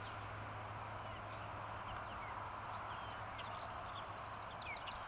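Small songbirds chirping and calling with short, quick notes, scattered throughout, over a steady low hum and hiss.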